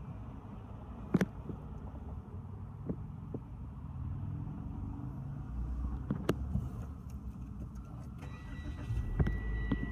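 Peugeot 4008's engine being started with the push-button start, catching near the end and settling into a low steady running sound. A steady high electronic warning tone comes on shortly before. Two sharp clicks sound earlier.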